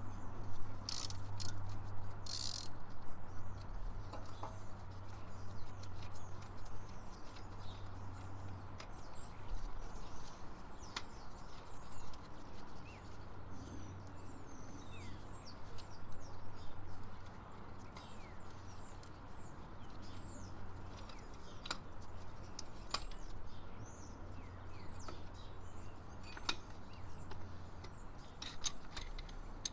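Small birds chirping repeatedly, short high calls scattered throughout, over a low steady hum that stops near the end. A couple of short rasping noises come about one and two and a half seconds in.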